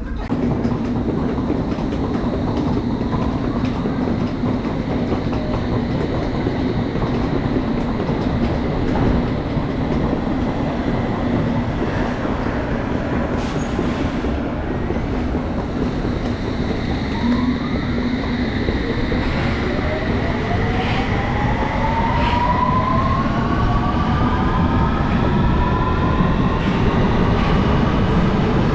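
London Underground train running with a loud, steady rumble and rattle. About two-thirds of the way through, a whine starts to rise steadily in pitch as the train picks up speed.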